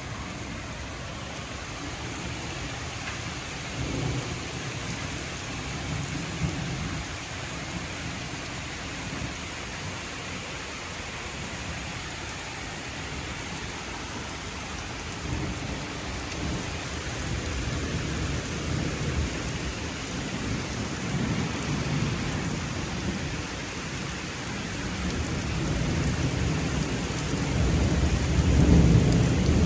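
Steady heavy rain with low rumbles of thunder rolling through it, building to the loudest rumble near the end.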